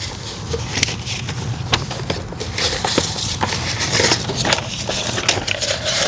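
Crinkling and rustling of pre-cut vinyl chrome-delete pieces being handled and sorted, with many small irregular clicks and crackles.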